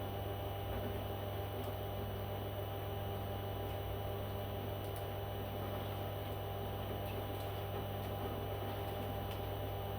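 Steady low hum with several steady tones over it and a few faint clicks.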